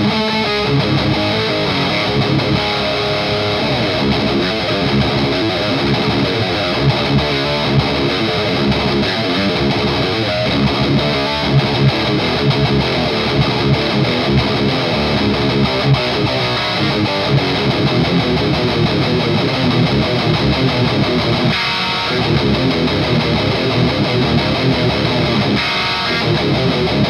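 Distorted electric guitar played through an overdrive pedal into an EVH 5150 Iconic amp, with heavy riffs and strummed chords throughout and a couple of short breaks near the end.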